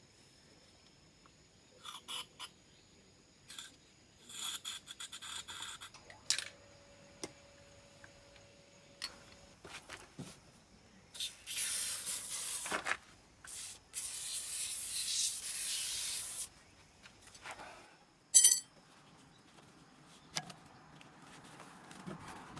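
Hand-work noises from motorcycle repair: scattered clicks and a rattle, two long hissing rubs a few seconds apart, and one sharp metallic clink near the end.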